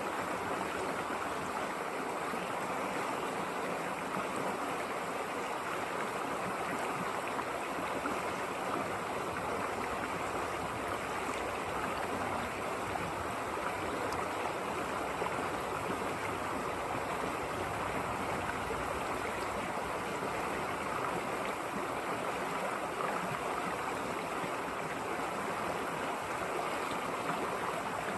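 River water rushing and gurgling steadily over stones, an even, unbroken sound.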